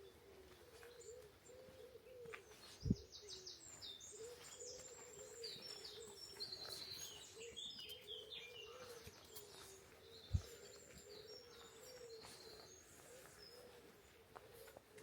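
Songbirds chirping and trilling over a pigeon cooing again and again underneath. Two short low thumps, about three seconds in and about ten seconds in, are the loudest sounds.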